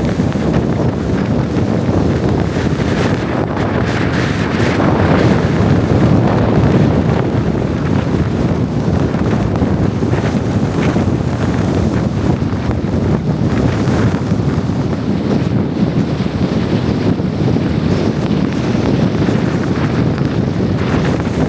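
Strong blizzard wind rushing over the microphone in a steady, loud roar that swells slightly a few seconds in.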